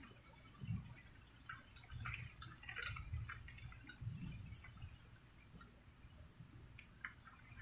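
Rain dripping, with scattered drops ticking and a few short, faint low rumbles.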